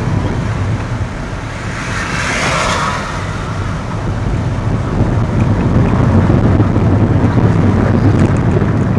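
Car cabin noise while driving: a steady low rumble of engine and tyres on the road, with a swell of rushing hiss about two to three seconds in.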